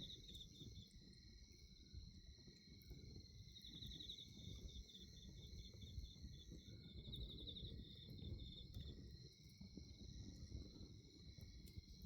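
Crickets and other night insects chirping in a steady high chorus, with a pulsed trill that comes in at the start and again from about three and a half seconds to nine seconds. Underneath, a faint low rumble and a few small crackles from a burning bonfire.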